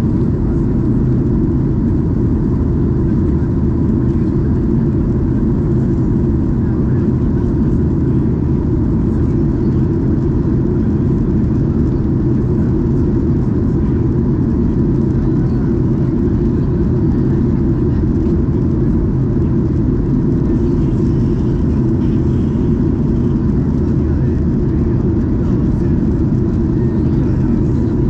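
Steady low cabin rumble inside a Boeing 737-800 from its engines, even and unchanging, with a faint steady tone above it.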